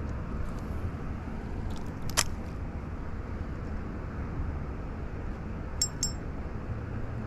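Steady low outdoor rumble, with a single sharp click about two seconds in and two small ringing metallic clinks in quick succession near the end.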